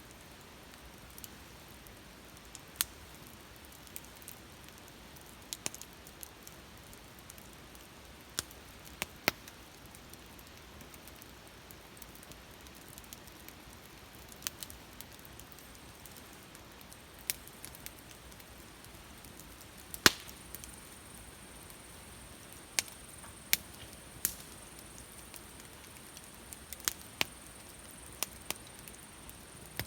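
Wood campfire crackling: irregular sharp pops and snaps over a faint hiss, with the loudest pop about twenty seconds in.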